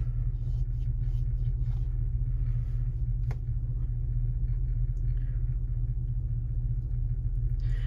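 Steady low rumble of a truck on the move, heard from inside the cab, with one sharp knock about three seconds in.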